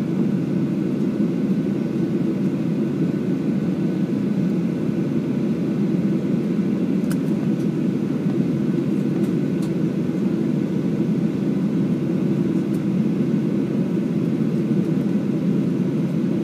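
Steady, even rumble of airliner cabin noise at the gate, with a faint steady tone above it and a few faint clicks.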